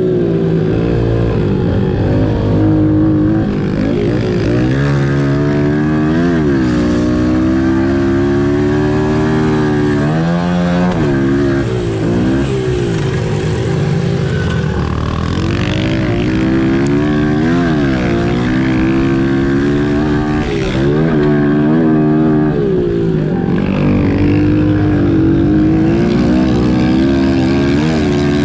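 Pit bike engines racing, the revs repeatedly dropping off and climbing again as the riders shut off and get back on the throttle.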